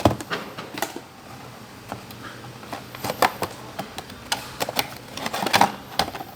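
Model box packaging being opened by hand: irregular clicks, taps and crinkles, with a knock at the start and a cluster of louder clicks about five and a half seconds in.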